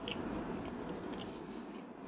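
A person chewing food with the mouth close to the microphone: soft, faint wet mouth clicks over a low steady room hiss.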